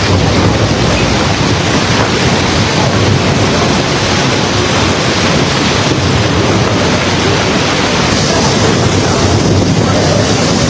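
Heavy downpour in a thunderstorm, a loud, steady rush of rain, with wind buffeting the microphone.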